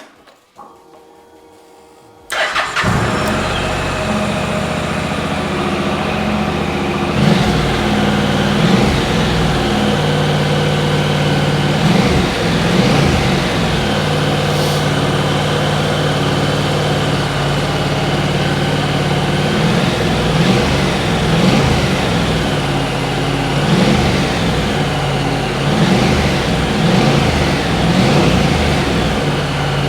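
2013 Honda NC750's parallel-twin engine starting about two seconds in and catching at once, then running at idle with a series of short throttle blips, each a quick rise and fall in pitch.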